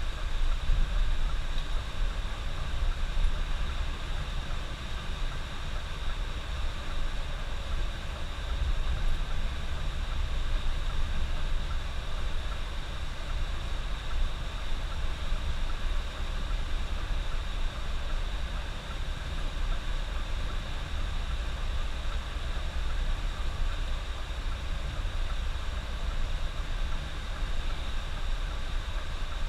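Coach bus on the move: a steady low rumble of engine and road noise with no change.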